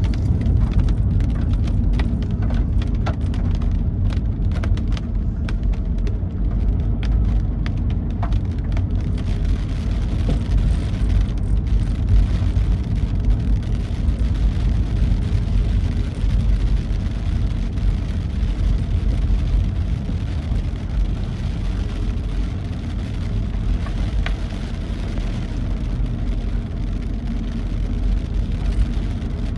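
A vehicle driving along a wet road in the rain: a steady low rumble of engine and tyres with a light rain hiss, and scattered small ticks of raindrops mostly in the first several seconds.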